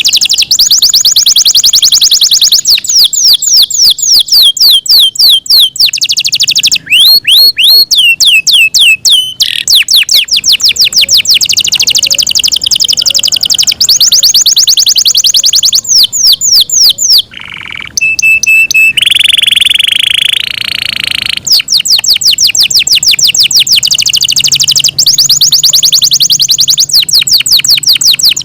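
Yorkshire canary singing a long song of fast, high repeated trills, changing from one trilled phrase to the next every second or two. About two-thirds of the way through it breaks off briefly, then holds a steady rolling note for a couple of seconds before going back to quick trills.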